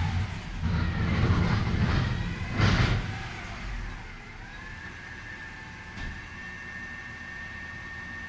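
Recycling truck's engine running heavily, with a short loud burst of hiss about two and a half seconds in. The engine then settles to a steady high whine.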